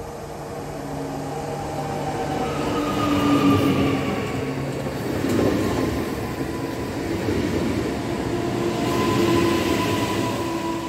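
Koleje Dolnośląskie electric multiple unit running past along the platform. Its traction motors whine in several tones that slowly drift down in pitch, over wheel-on-rail rumble that grows louder as the train comes alongside.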